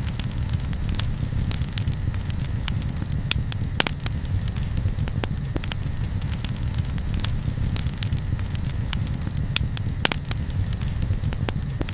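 Campfire crackling: irregular sharp pops and snaps over a steady low rumble, with two louder pops, about four seconds in and near the end. A faint high chirp repeats roughly once a second.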